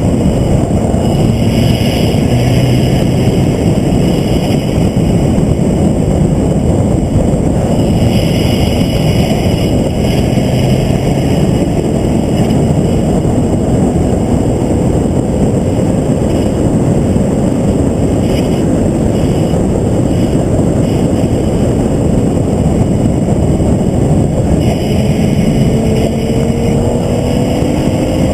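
Vehicle lapping a race track, heard onboard as a steady, loud rush of wind and road noise over the engine. Near the end the engine pitch rises as it accelerates.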